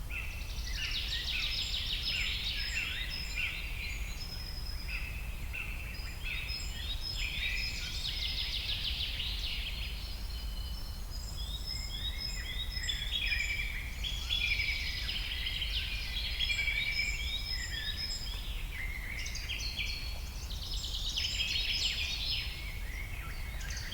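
A chorus of many small birds chirping and trilling over one another, over a steady low rumble.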